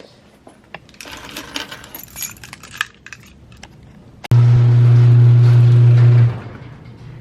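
Metal jangling and clinking, like a bunch of keys being handled, for a couple of seconds. Then a loud steady low hum starts suddenly about four seconds in and drops off sharply two seconds later.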